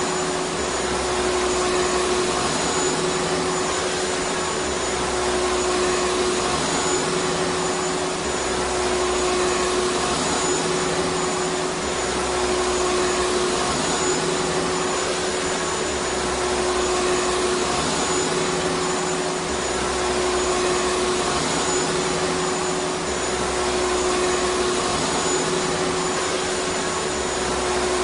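Vacuum cleaner running steadily: an even, loud rushing hiss over a constant hum, with a low rumble that swells and fades every couple of seconds.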